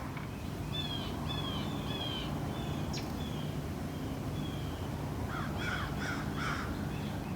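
Backyard birds calling: a run of about eight short, falling whistled notes at roughly two a second, fading away, then four harsh, raspy calls in quick succession near the end.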